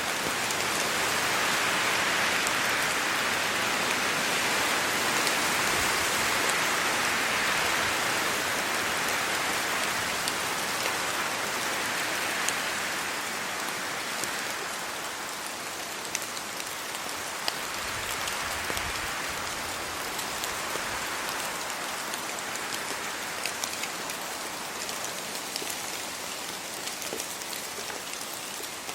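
Steady rain falling on trees, leaves and the road, heavier in the first half and easing a little about midway, with scattered sharp ticks of single drops.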